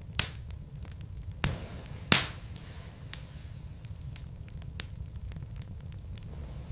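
Wood logs burning in a fireplace, crackling with scattered sharp pops over a steady low rumble of the flames; the loudest pop comes about two seconds in.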